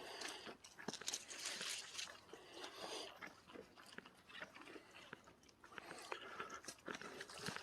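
Footsteps crunching along a woodland trail: an irregular run of crunches and small snaps underfoot.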